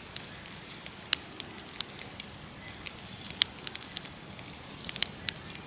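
Wood campfire crackling, with sharp irregular pops over a faint steady hiss.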